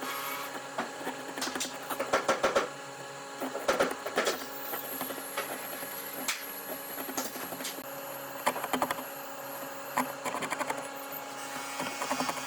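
A machine runs with a steady hum, broken several times by short spells of rapid clicking and clatter.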